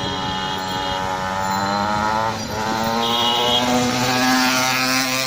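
50 cc motorbike engine revving up, its pitch climbing, dipping briefly about two and a half seconds in, then climbing again.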